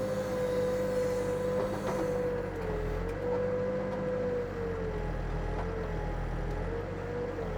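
Backhoe's diesel engine running steadily while digging, with a whine that sags slightly in pitch several times as the machine takes load.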